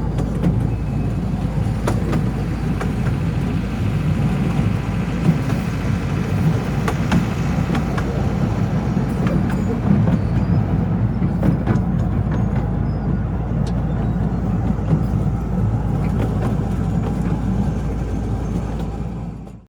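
Small mountain tourist train running, a steady low rumble with scattered clicks and knocks from the wheels and cars; the sound cuts off suddenly at the end.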